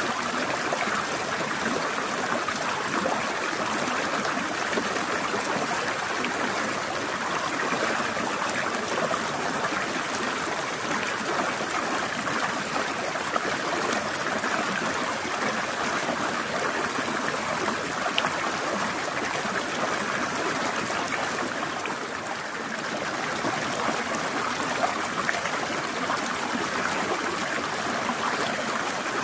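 Mountain stream flowing and trickling over rocks: a steady, even rush of water with small splashes.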